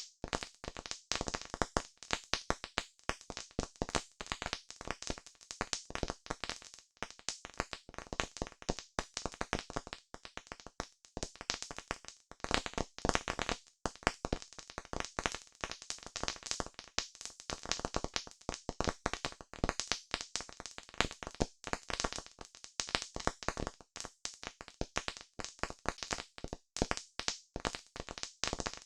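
Campfire crackling: a dense, irregular stream of sharp pops and snaps from the burning wood, with no let-up.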